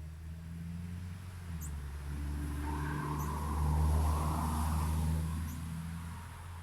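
A motor vehicle passing on a nearby road: its engine and tyre noise grow louder to a peak about four seconds in, then fade away. A small bird gives three short, high chirps over it.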